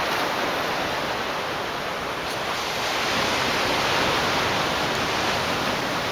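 Pacific Ocean surf washing against shoreline rocks: a steady wash of moving water that swells a little midway.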